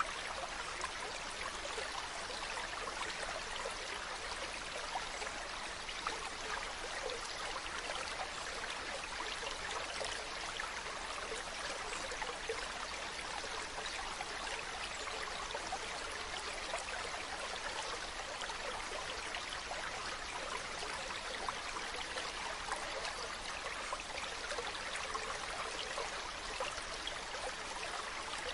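Mountain stream running over rocks: a steady rushing and splashing of water with fine trickling detail.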